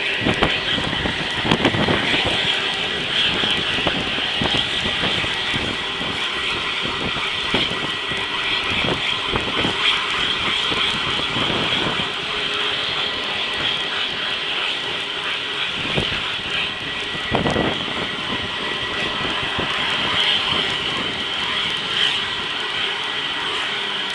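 CH-53E Super Stallion heavy-lift helicopter running, a steady high turbine whine over continuous rotor and engine noise with irregular pulsing.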